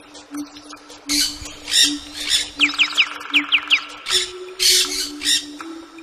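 Birds calling: repeated harsh squawks, with a quick run of about six falling whistled notes about halfway through.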